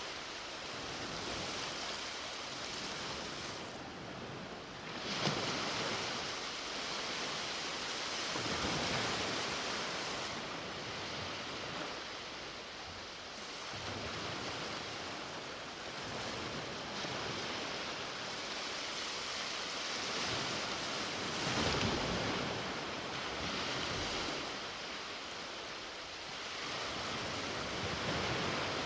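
Sea waves breaking and washing up the beach in a steady rush, swelling and fading every few seconds, with a few louder breakers.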